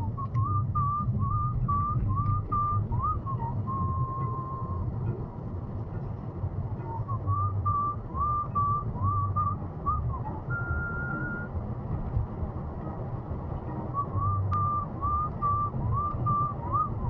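A tune whistled in three phrases of quick short notes, with a few longer held notes between, over a steady low rumble of a vehicle on the road.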